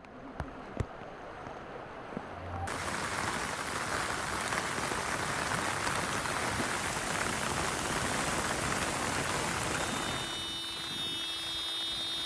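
Heavy rain pouring down as a steady hiss, softer with a couple of clicks at first, then much louder and fuller about three seconds in. Near the end the rain thins and a steady hum comes in under it.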